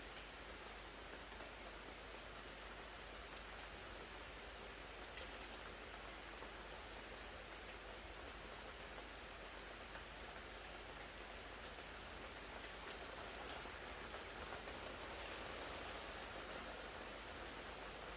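Steady rain falling: an even, soft hiss with scattered faint drop ticks, growing slightly louder near the end.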